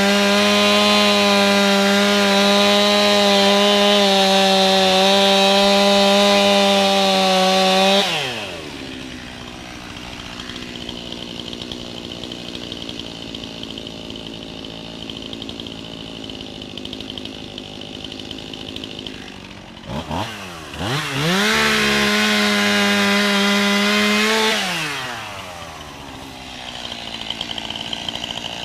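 Two-stroke chainsaw held at full throttle with a steady high-pitched whine, then dropping to idle. After a long idle it is blipped twice, revved up to full throttle again for a few seconds, and let back down to idle near the end.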